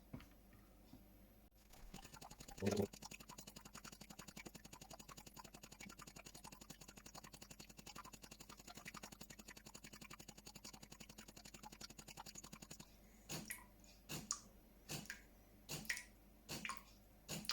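DeLonghi Magnifica EVO coffee machine's pump starting up about two seconds in and running with a rapid, even pulsing as it pushes descaling water through, with a gurgle at the start. It stops near the end and is followed by about seven short sharp ticks about half a second apart.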